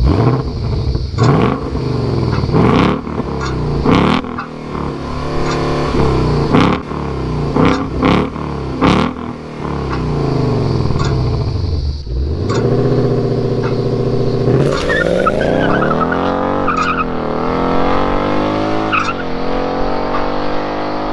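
A sports car engine revving up and down repeatedly with sharp cracks between the blips. From about halfway, it pulls in one long rise through the revs, broken by a few brief dips like upshifts.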